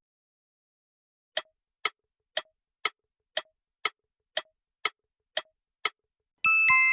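Clock-tick sound effect, ten even ticks about two a second, followed near the end by a two-note ding-dong chime, as a timer marking the end of a pause.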